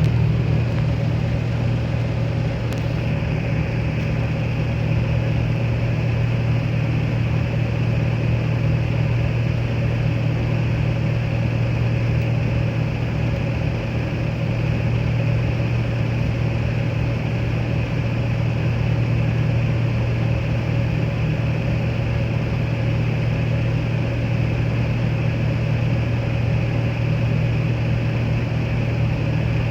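Scania L94UA articulated bus engine running steadily with a deep, even hum and no revving.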